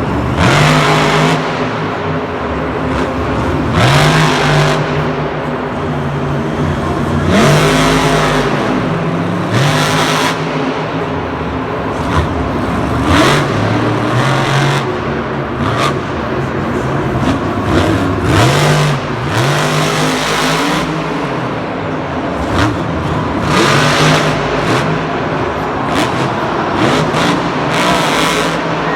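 A vehicle motor revving up again and again, its pitch sweeping upward with each surge, mixed with bursts of rushing noise.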